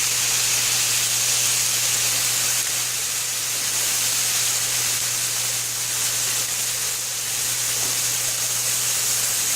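Steady sizzling of ground turkey and freshly added canned cannellini beans in a hot pan, with a steady low hum beneath it.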